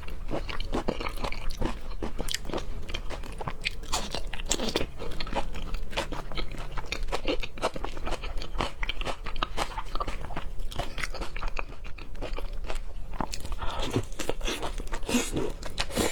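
Close-miked chewing of seafood, with continuous wet crunching and smacking bites.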